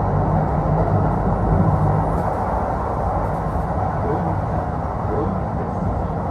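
Running sound inside a Kintetsu Osaka Line local train carriage: wheel-and-rail rumble with a low motor hum that fades slightly as the train slows to stop at a station.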